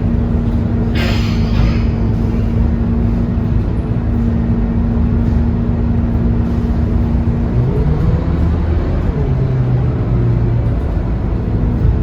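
Scania K230UB city bus heard from inside, its engine and drivetrain running with a steady hum. A short hiss of air comes about a second in. Around eight seconds in, the engine note slides up in pitch and then settles lower as the bus changes speed.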